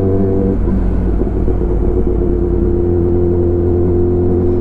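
Kawasaki ZX-10R's inline-four engine idling steadily through an Arrow full-system exhaust.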